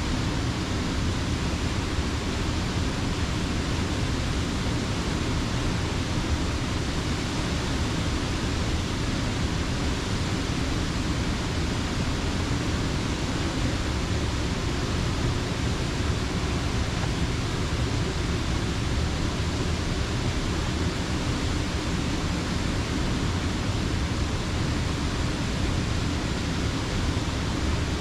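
Water rushing over a mill dam: a steady, unbroken wash with a deep rumble underneath.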